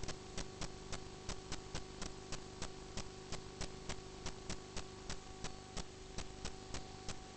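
Steady, regular ticking, about four clicks a second, over a low steady electrical hum.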